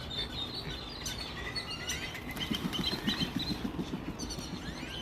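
Small birds chirping and twittering in short high notes. About halfway through, a rapid low pulsing sound joins them for a second or so: a weird buzzing noise.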